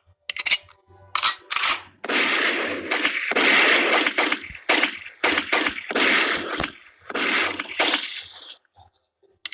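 Gunfire sound-effect ringtone: a few single shots, then several longer bursts of rapid machine-gun fire with short gaps between them.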